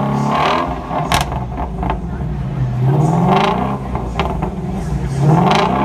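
Ford Shelby GT350's 5.2-litre flat-plane-crank V8 being revved in place: the revs are falling back toward idle at the start, then the engine is blipped twice, about three seconds in and again near the end. Each time the pitch climbs and drops back.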